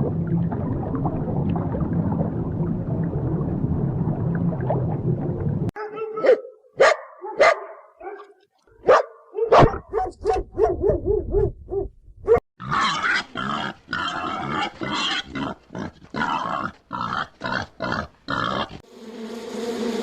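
Animal calls in three runs: a steady low rumbling noise, then a series of short sharp pitched calls starting about six seconds in, then quick rough noisy bursts from about halfway through.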